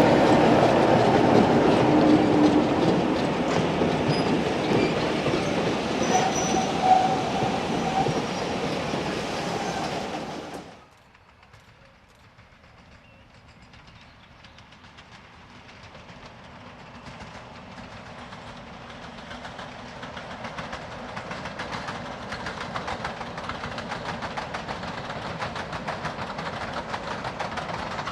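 Heritage diesel-hauled train passing at close range with wheels clattering over the rail joints; the sound cuts off suddenly about eleven seconds in. A train is then heard approaching, growing steadily louder with a fast, regular clickety-clack.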